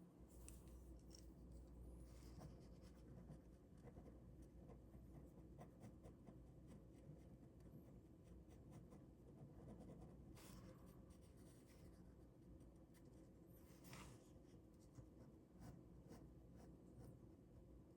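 Ballpoint pen scratching softly and steadily on paper while drawing, with a couple of brief, slightly louder strokes partway through.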